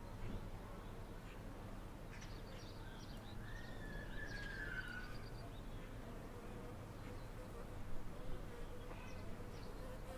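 Faint outdoor ambience: a steady low buzz throughout, with a few short bird chirps and a brief warble in the middle.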